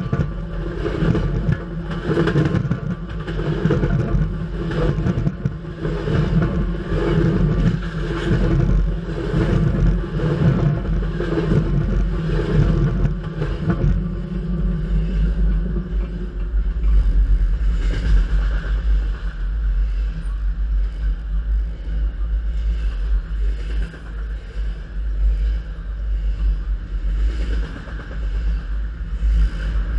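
Freight train rolling directly overhead on the rails, a heavy rumble with repeated knocks and rattling from the wheels and cars. About halfway through, the last car passes and the knocking fades. A second freight train on the adjacent track carries on as a steadier deep rumble.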